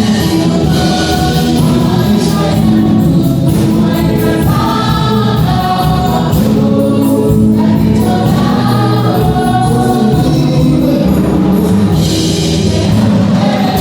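A choir singing with musical accompaniment, loud and steady.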